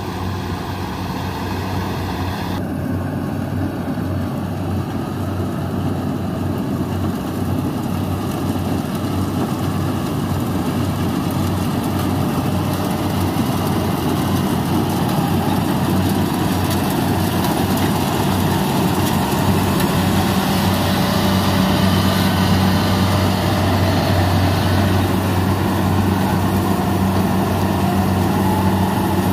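Kubota combine harvester's diesel engine running steadily with the rattle of the machine harvesting rice; the low hum grows a little stronger about two-thirds through.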